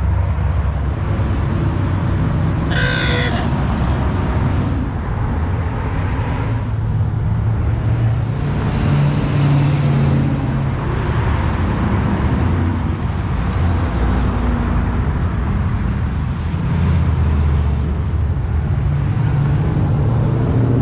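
Car engines rumbling in cruising traffic, their pitch rising and falling, with a short car horn toot about three seconds in.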